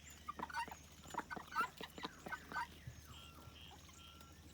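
Backyard poultry calling: a quick run of short clucks and chirps, loudest about one and a half seconds in, then a few fainter calls.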